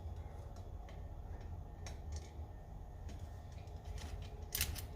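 Faint clicks and taps of small metal stove parts and tools being handled, with a brief cluster of sharper clicks near the end, over a steady low hum.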